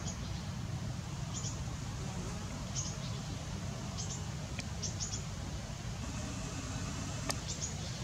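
A small bird's short, high-pitched chirps, in twos and threes about every second, over a steady low rumble, with one sharp click near the end.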